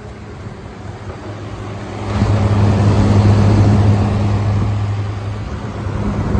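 Air conditioners running in cooling mode: a steady low compressor hum with the rush of condenser-fan air over it. The sound grows louder about two seconds in.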